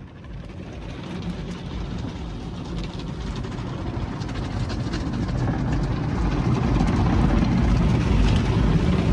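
Automatic tunnel car wash heard from inside the car: water spray and wash equipment hitting the car's body, a rushing noise that grows steadily louder.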